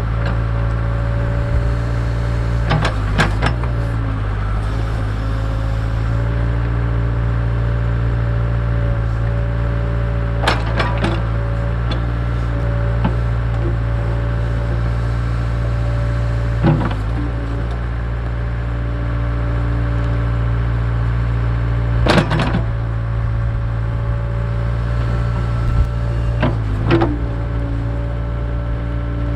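Case 580K backhoe's diesel engine running steadily under work, with several sharp clanks and knocks from the hoe and its bucket scattered through.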